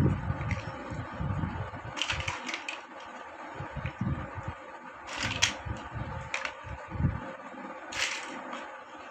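Plastic building bricks clicking and snapping as they are handled and pressed together, with scattered sharp clicks a second or more apart and soft handling knocks between them.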